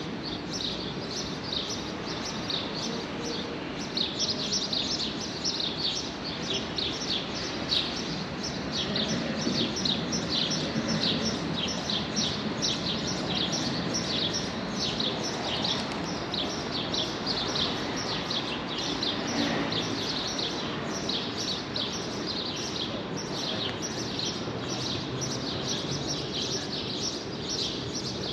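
Small birds chirping quickly and continuously, several short high chirps a second, over a steady hum of street background noise.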